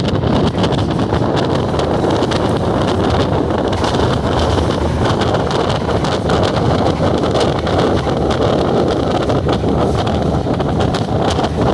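Steady wind buffeting the microphone over the rumble of a moving ordinary train.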